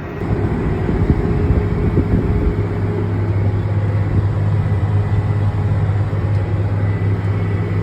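John Deere 8260R tractor's diesel engine running at a steady working speed, a constant low drone.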